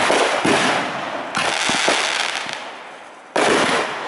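Aerial fireworks bursting: four loud bangs, two close together at the start, one about a second and a half in and one a little after three seconds in, each trailing off in a rolling crackle and echo.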